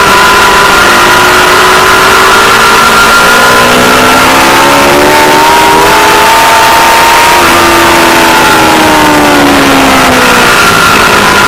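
Aprilia Tuono V4 Factory's V4 engine under a heavy rush of wind noise on the onboard microphone; the engine pitch climbs from about 3 seconds to 7 seconds in, then falls away steadily until near the end.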